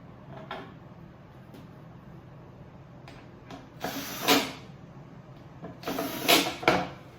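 Parts of a kitchen bed platform being handled and fitted together: a few knocks and scrapes, with the loudest just after four seconds in and a cluster from about six to seven seconds in.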